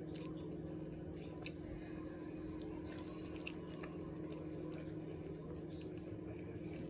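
A person chewing a mouthful of bread close to the microphone: soft wet smacks and small clicks, irregular throughout. Under it runs a steady low hum.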